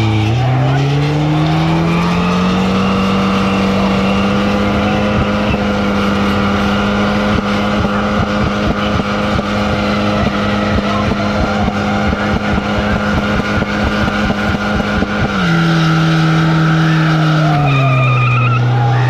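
Car engine revved hard and held at high revs during a burnout, with a rapid irregular crackle running through the middle of it. The revs climb over the first two seconds, hold steady for about thirteen seconds, then drop in two steps near the end.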